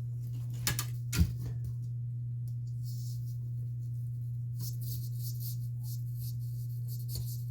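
Small brushes scrubbing a Stratocaster's output jack: a couple of knocks about a second in, then scratchy scrubbing in short spells, over a steady low electrical hum.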